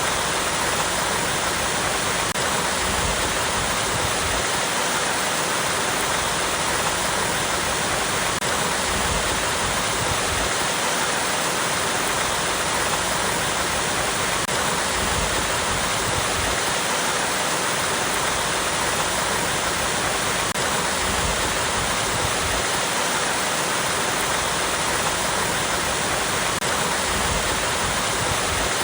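Small waterfall cascading over rocks: a steady, dense rush of falling water.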